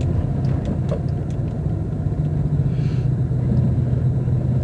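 Steady low rumble of a car heard from inside the cabin: engine and road noise, with a few faint ticks in the first second or so.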